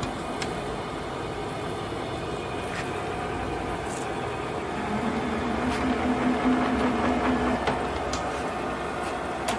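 OKK MH-3V milling machine's power feed running in rapid traverse on the crossfeed, a steady whine of the feed motor and gearing. A lower hum comes in about five seconds in and drops away before eight seconds, with a few faint clicks.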